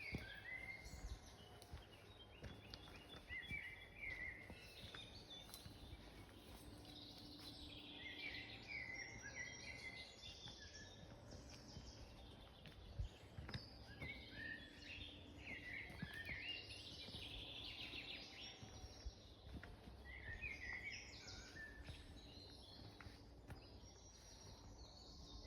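Small birds chirping and twittering in quick, overlapping runs of short notes, faint, over a steady low background rumble.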